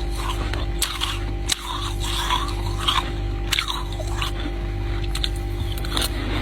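Ice being bitten and chewed: irregular crunching with a few sharp cracks.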